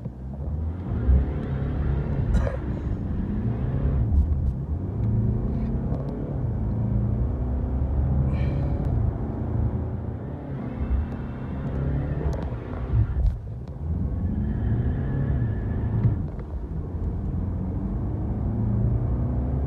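Mercedes-Benz C220d's four-cylinder diesel engine heard from inside the cabin under hard acceleration from a standstill, its pitch climbing and dipping briefly several times as the automatic gearbox upshifts.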